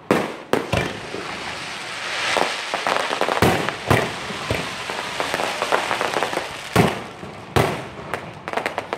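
Aerial firework shells bursting in a professional display: sharp bangs, three in the first second and more in pairs later, over a steady dense crackle from the bursting stars.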